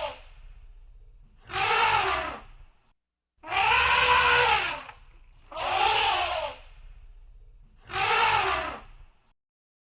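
Elephant trumpeting: four loud calls of about a second each, roughly two seconds apart, each rising and then falling in pitch.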